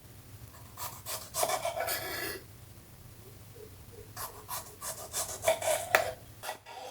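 Rasping, rubbing strokes, probably food preparation. A first stretch of strokes comes about a second in. After a pause, a quicker series of short strokes follows at about four a second.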